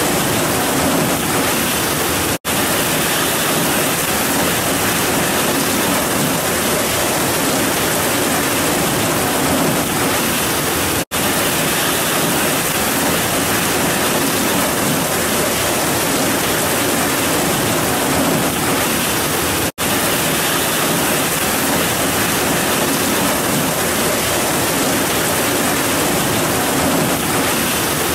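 Heavy rain pouring down in a steady, even hiss, cut by three split-second gaps of silence about nine seconds apart.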